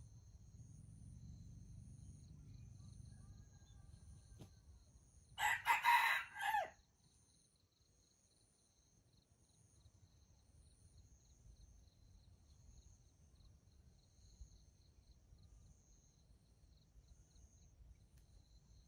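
A jungle fowl rooster crows once, a short crow of about a second and a half that drops at the end, against a steady faint high chirring of insects.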